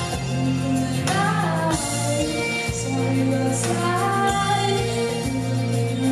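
Live pop band playing with a female lead singer: a sung melody over steady bass notes, drums and cymbals.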